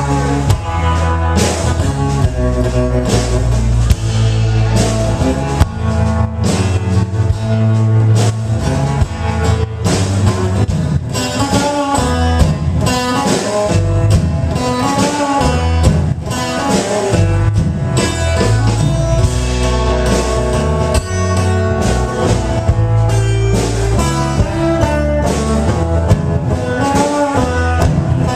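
Live blues band playing: guitar over bass and a drum kit, loud and steady.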